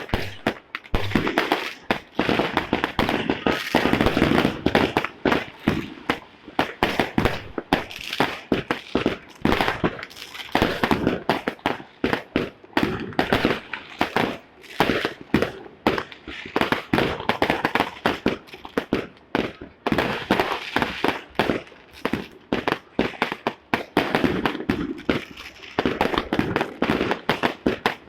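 Fireworks and firecrackers going off continuously in a dense, irregular barrage of bangs and crackling pops, with no pause.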